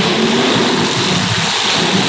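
Race car engines running on track during a feature race, a steady drone with pitch rising and falling as the cars accelerate and slow.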